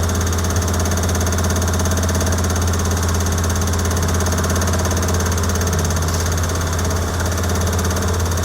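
Steady, loud low mechanical drone of running machinery during the Pilatus aircraft's stall-warning system test, unchanging throughout.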